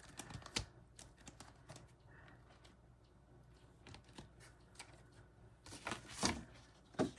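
Cash bills and paper being handled: scattered light clicks and soft rustles, busiest about six seconds in.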